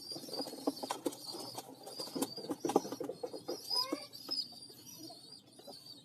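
Pigeon squab begging to be fed: a thin, high, wavering squeal runs on, with a fast patter of clicks and flutters during the first half. A short rising call comes near the end.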